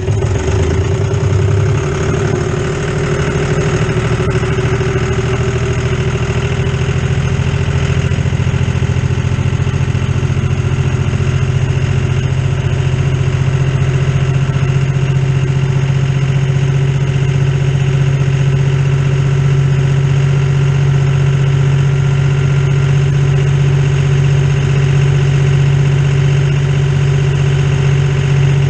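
John Deere tractor engine running steadily, loud, with its speed wavering a little in the first couple of seconds before settling.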